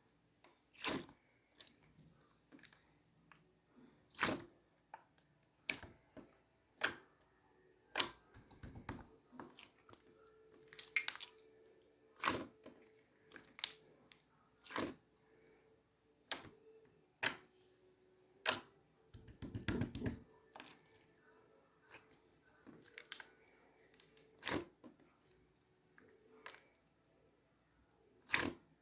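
Clear slime being pressed and squeezed by hand, giving sharp wet clicks and pops about once a second, with a couple of longer squelching crackles.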